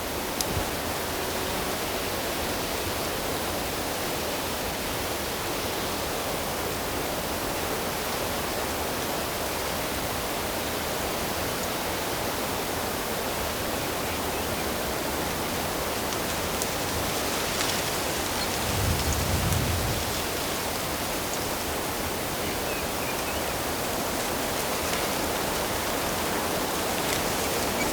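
Steady rushing of flowing water, an even hiss with no break. A brief low rumble about two-thirds of the way through.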